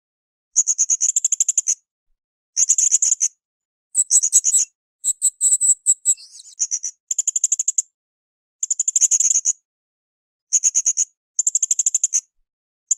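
Blue-crowned hanging parrot (srindit) calling: short trains of rapid, very high-pitched notes, each under a second long, repeated about every one to two seconds with brief silences between. Around the middle one burst is more varied and twittering.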